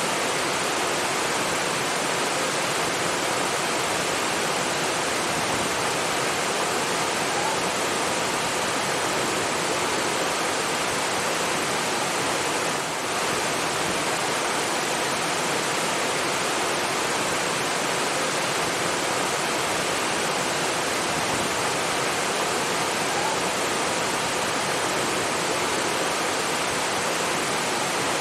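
Rushing water: a steady, dense hiss of flowing water that dips briefly about halfway through.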